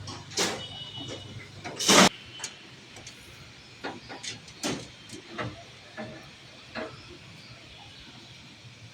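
Irregular knocks and scrapes of building-site work, a dozen or so in the first seven seconds, the loudest about two seconds in.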